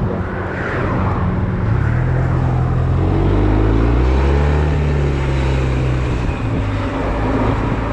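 Honda Silver Wing maxi-scooter engine running under way, its pitch rising as it accelerates from about two seconds in and then easing off, over steady wind and road noise.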